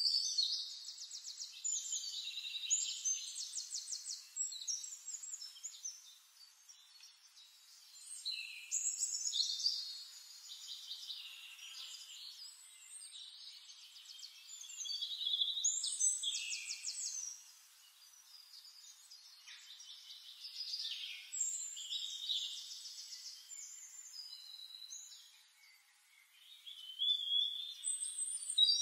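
A songbird singing in phrases of rapid, high trills and chirps, each a few seconds long, coming again every several seconds.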